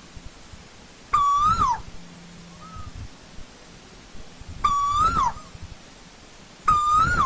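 Asian koel calling: three loud whistled notes a few seconds apart, each about half a second long, rising slightly and then dropping away at the end. A fainter note follows the first.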